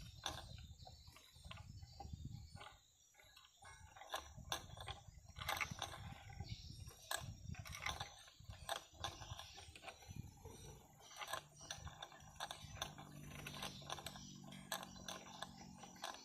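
Faint, irregular clicks and patters of a blue-crowned hanging parrot bathing, splashing water and fluttering. A low steady hum joins in for the last few seconds.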